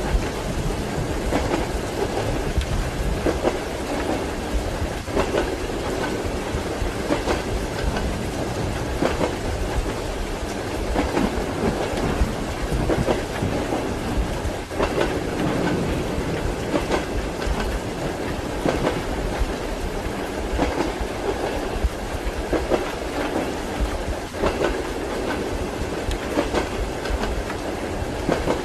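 Train wheels clattering over rail joints in a steady rhythm, heard inside a passenger compartment, over a constant rolling rumble with rain.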